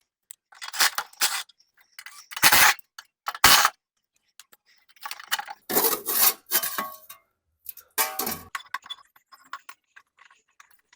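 Metal clanking and clinking in short bursts, about half a dozen over the span, as a steel belt cover is unbolted and lifted off a walk-behind mower deck with hand tools.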